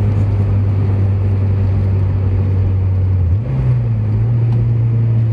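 Honda Prelude's turbocharged F20B four-cylinder engine droning at a steady cruise, heard from inside the cabin over road noise. About three and a half seconds in, the sound dips briefly and the engine note steps up to a higher pitch and holds there.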